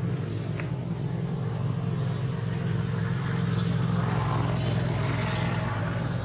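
Steady engine drone, a little louder in the middle.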